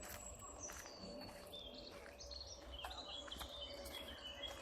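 Small woodland birds chirping and singing, many short high notes scattered throughout, over a faint low rumble.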